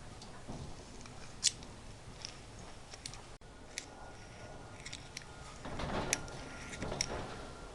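Scattered light metallic clicks and clinks of hand tools and small metal parts being handled, with a louder stretch of rustling handling noise about six seconds in.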